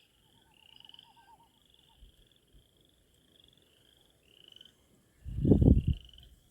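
A chorus of frogs calling: short rising, creaking trills repeated over and over, with a lower, slower trill in the first two seconds. About five seconds in, a loud low rumble of wind buffeting the microphone covers them for under a second.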